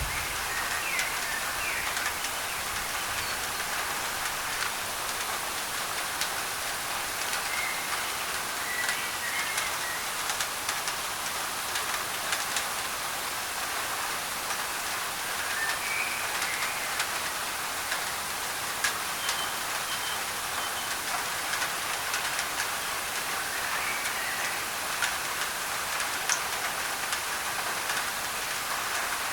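Steady rain pattering on a thin tin roof, with single drops ticking through it, blended with a constant hiss of white noise. Birds chirp faintly now and then above the rain.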